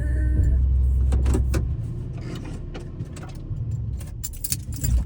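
Pickup truck's low engine rumble that stops about two seconds in, followed by scattered clicks and knocks inside the cab.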